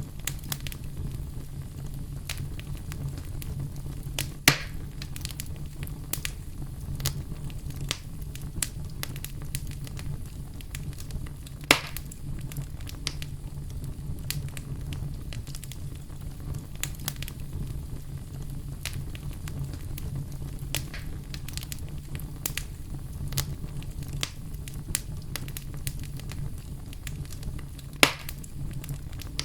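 Campfire burning with a steady low rumble and frequent small crackles, and three louder pops spread through it as the wood snaps.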